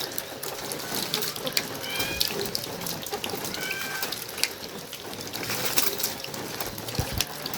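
Rain falling steadily, with many sharp drips and drops, and a few short bird chirps about halfway through.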